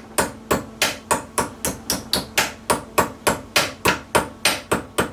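Small hammer tapping the edge of a sheet-steel repair patch clamped in a vise, bending it over to shape, in a steady run of about four quick strikes a second. The hammering stops near the end.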